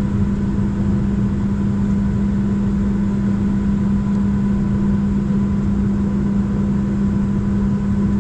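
Jet engines of a Boeing 737-700, CFM56-7B turbofans, heard inside the cabin during the climb after takeoff. They make a steady drone with a strong even hum over a low rumble.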